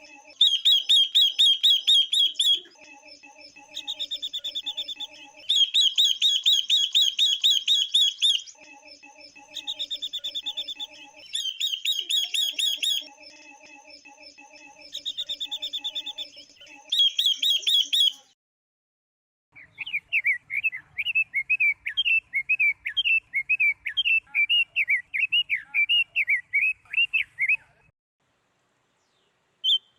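Calls of female silver-eared mesia and female red-billed leiothrix. For the first two-thirds, bursts of fast, high trills repeat every couple of seconds. After a short break there are about eight seconds of quicker, varied chirps lower in pitch.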